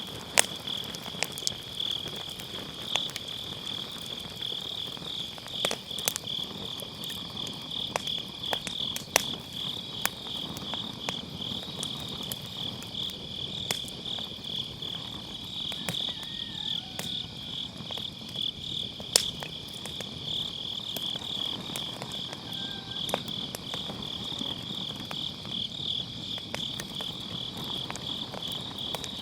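Night insects chirping in a fast, steady pulsing trill, over a wood fire burning with scattered sharp crackles and pops from the firewood.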